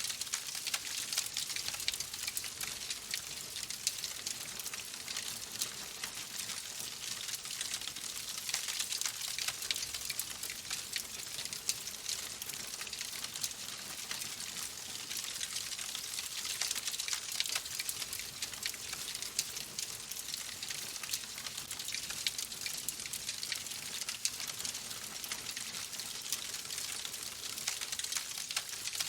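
Fireplace fire crackling: a steady hiss dotted with many small, irregular pops and snaps.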